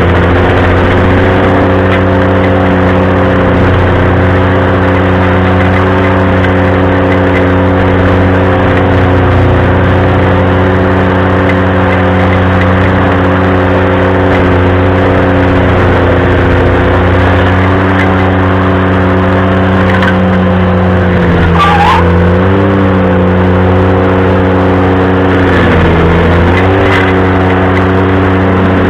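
Ventrac compact tractor's engine running steadily at high throttle while driving a stump grinder, its pitch dipping twice as the grinder loads up near the end, with a brief high squeal about two-thirds of the way through.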